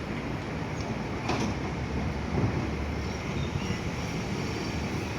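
Odessa city tram running on its rails: a steady rumble with one sharp click about a second and a half in and a faint high whine from about three seconds on.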